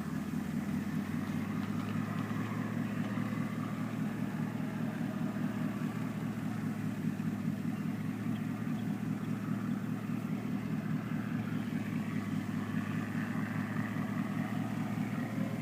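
An engine running steadily, a low drone that holds the same pitch with no revving or fading.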